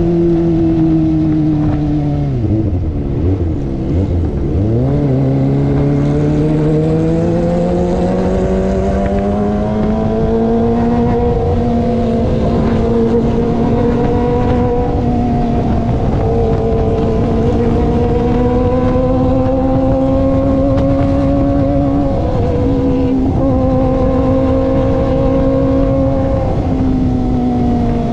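Kawasaki ZX25R inline-four engine with an aftermarket racing exhaust, under way. Its pitch drops sharply about two to four seconds in, with a couple of quick blips, then climbs back and holds a steady high-revving note that rises and eases gently through the rest.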